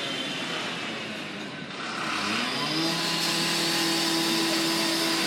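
Class 156 diesel multiple unit's engine under way: its steady drone drops away, then about two seconds in rises in pitch and settles back into a steady drone as the train pulls away.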